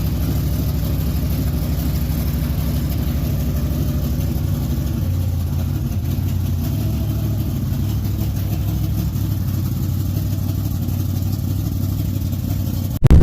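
A vehicle engine idling steadily, its low hum growing slightly fuller about five seconds in.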